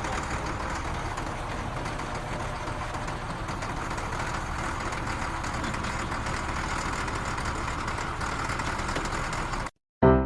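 Steady engine rumble, like a vehicle idling, with a hiss on top; it cuts off suddenly near the end.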